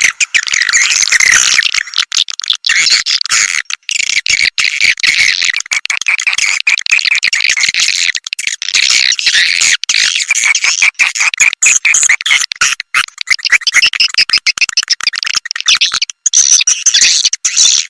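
Recorded swiftlet lure call: dense, loud, high-pitched twittering and chirping of swiftlets, broken by many very brief gaps, played to draw swiftlets to a nesting house.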